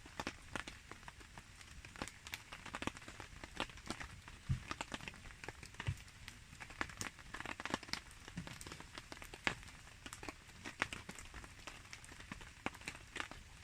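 Campfire crackling in the rain: a wood fire giving off irregular sharp pops and ticks over a soft patter of rain, with a couple of duller thuds in the middle.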